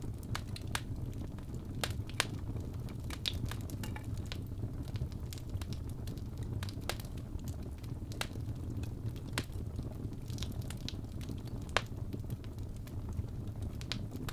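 Wood fire crackling in a fireplace: a steady low rumble of flames with irregular sharp pops and snaps, the loudest about two seconds in and near the end.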